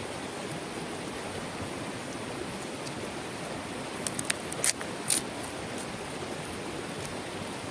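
Water flowing steadily in a stream, with a few sharp clicks about four to five seconds in.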